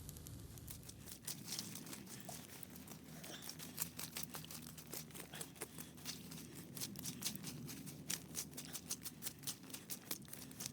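Small campfire crackling, with irregular quick snaps several times a second.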